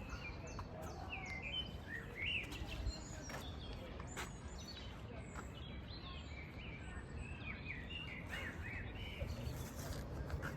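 Several small songbirds chirping and singing in quick, varied short phrases, over a steady low background rumble with a few sharp clicks.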